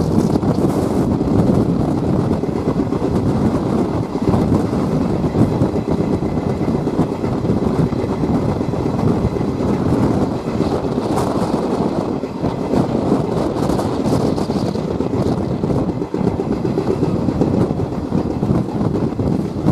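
A passenger train running along the line, heard from on board: a steady rumble of the wheels on the rails.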